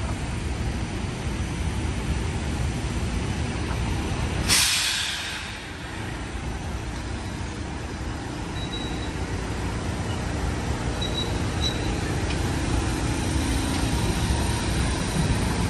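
Commuter train coaches running steadily on the rails, with a sudden sharp hiss of air about four and a half seconds in that fades within a second, like an air brake venting. A few faint short squeals follow later.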